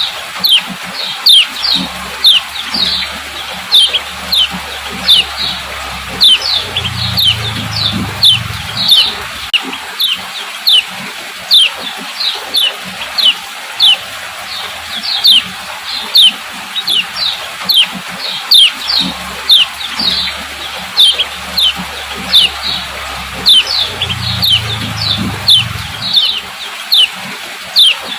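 Female kecial kuning (lemon-bellied white-eye) giving its 'ciak ciak' call: a quick, steady series of short, high, downward-sweeping chips, about three a second. This call is used to stir male birds into singing.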